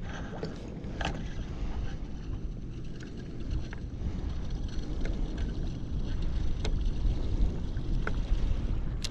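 Wind buffeting the microphone on a kayak at sea, a steady low rumble, with water lapping at the hull and a few sharp clicks scattered through.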